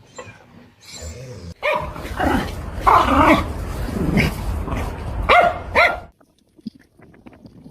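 A dog barking and growling in a run of loud, pitch-bending calls lasting about four seconds, cutting off suddenly.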